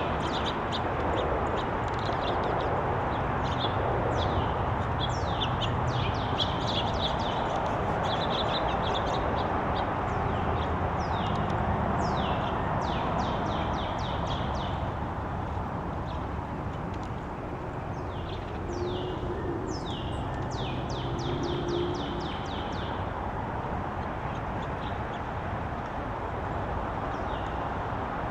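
Small birds at a backyard feeder chirping in quick runs of short, high, down-slurred notes, in two main bouts. Steady background noise runs underneath.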